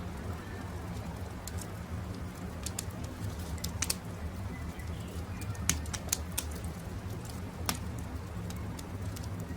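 Wood fire crackling, with sharp irregular pops over a steady low rumble, and faint bird calls in the background.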